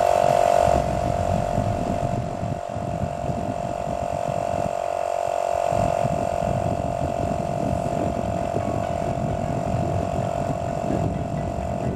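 Electric air pump powered from the car, running steadily with a constant whine and a low rattle, pumping air into a plastic-bottle water rocket to build pressure before launch.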